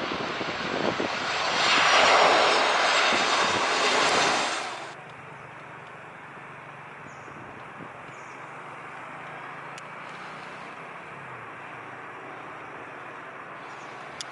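Jet airliner passing low overhead on landing approach, its engine noise swelling to a peak about two seconds in and then cutting off abruptly about five seconds in. A quieter steady background noise with a faint low hum follows.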